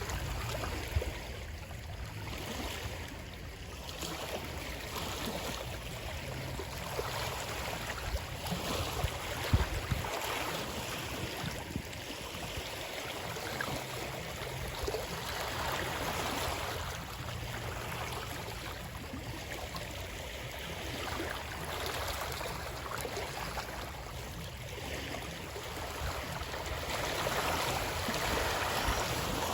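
Running water, a stream flowing and splashing steadily in gentle surges, with a few brief sharper splashes.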